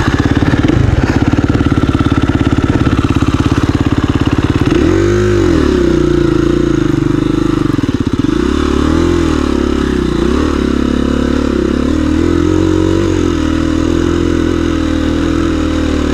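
2017 KTM 350 EXC-F's single-cylinder four-stroke engine running at a steady low speed, then from about five seconds in revving up and down in repeated waves as the throttle is opened and closed.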